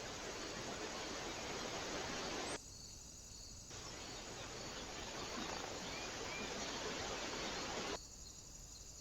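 Steady hiss of a trail camera's microphone with outdoor background noise, dropping to quieter gaps about two and a half seconds in and again near the end where one recording gives way to the next. A couple of faint short chirps sound about six seconds in.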